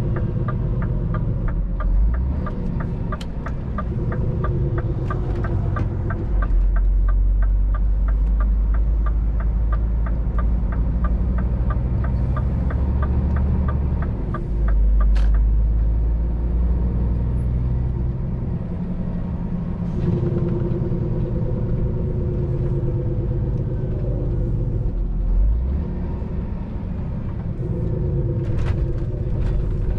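Scania R500 truck's V8 diesel engine and road noise running steadily from the cab, the low rumble shifting in level a few times. A fast, regular ticking sounds over it through the first half and stops about halfway with a sharp click.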